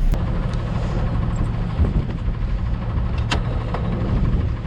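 Jeep engine idling steadily, with a couple of faint clicks. A hard landing dented its oil pan, and the owner puts the engine's ticking down to a front rod touching the girdle or the oil pan.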